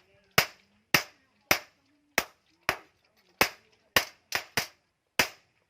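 Hammer striking steel on an anvil: about ten sharp, ringing blows, irregularly spaced at roughly two a second, as the bearing steel is forged.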